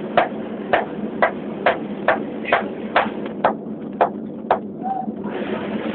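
Steady rushing noise with a low hum from a billet reheating furnace's burner area, cut through by sharp clanks about twice a second. The clanks stop near the end, and the rushing thins for a moment before returning.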